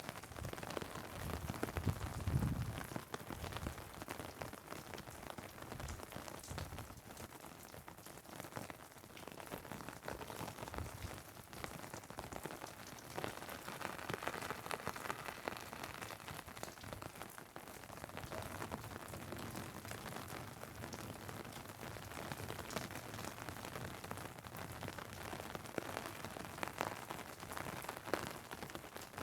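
Steady rain, with many drops hitting an umbrella overhead and the asphalt around it. A few low thuds come about two seconds in.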